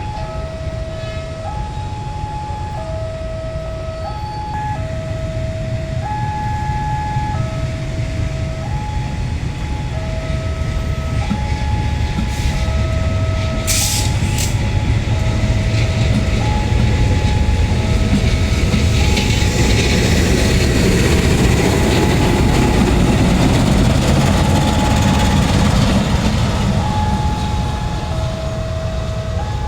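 A train rumbles past, building from about 6 s to its loudest between roughly 18 and 26 s before easing off. Throughout, an electronic two-tone warning signal alternates between a higher and a lower note about once a second, as at a railway level crossing. A brief sharp hiss sounds around the middle.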